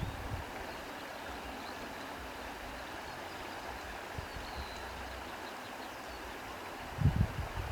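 Steady rushing noise of flowing water, with a few low thumps about seven seconds in.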